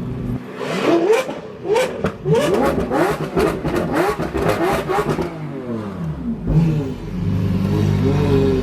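Performance car engines revving up again and again in quick rising sweeps as they accelerate away, with sharp cracks between the sweeps. A steady low engine drone takes over in the last couple of seconds.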